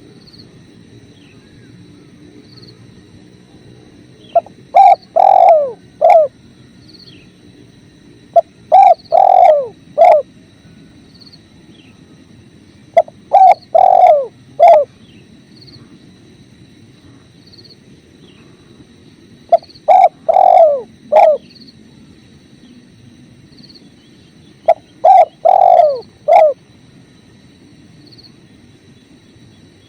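Spotted dove (tekukur) cooing: five phrases of a few coos each, about every five seconds, over the steady rush of a river. Faint small chirps and a thin high tone sit in the background.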